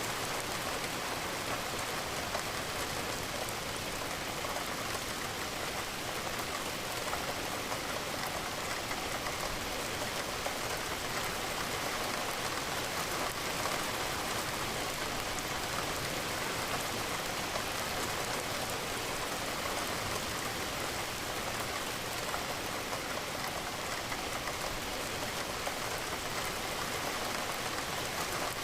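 Steady rain: a dense, even patter of raindrops that holds at the same level without letting up.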